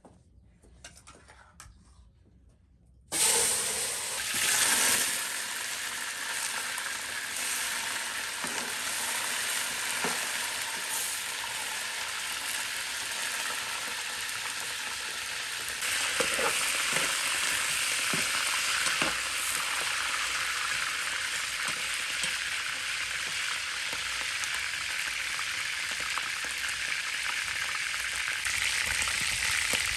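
Food frying in hot oil: the sizzle starts suddenly about three seconds in and gets louder about halfway through, with occasional clicks of stirring.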